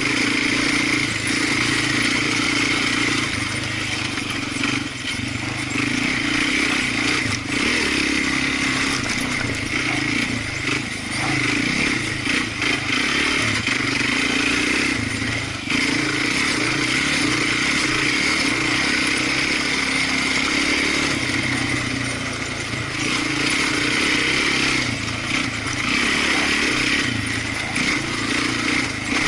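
Off-road vehicle engine running steadily under way on a trail ride, with brief dips and pickups of throttle.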